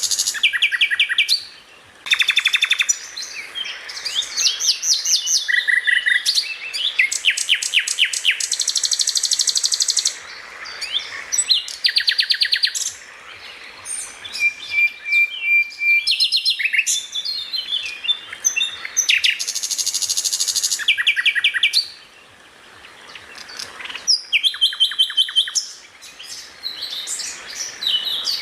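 Songbird singing a loud, varied song of rapid trills and fast repeated high notes, phrase after phrase with brief pauses and one short held whistle in the middle.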